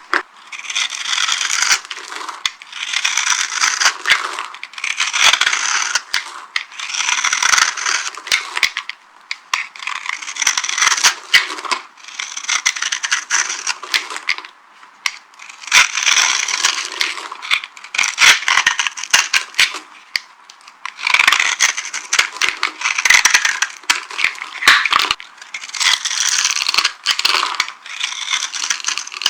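Dry soap being crushed, crunching and crackling in repeated bursts, one every second or two, with sharp clicks among them.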